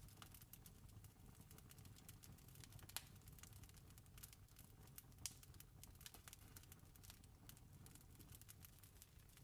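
Campfire crackling faintly: irregular sharp pops and snaps over a low, steady rumble, with two louder pops, about three seconds in and a little past five seconds.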